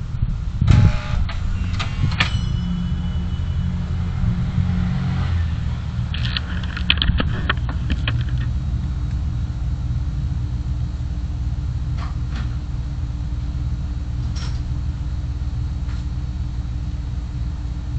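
A car driving, heard from its dashcam: a steady low rumble of engine and road noise. Short clusters of sharp knocks and rattles come about a second in and again around seven seconds, with two fainter ticks later.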